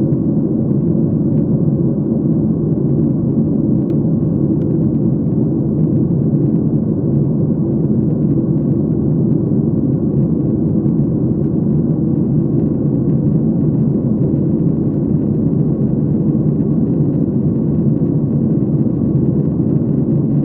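Steady cabin noise inside a passenger airliner in flight: a loud, even rumble of engines and airflow.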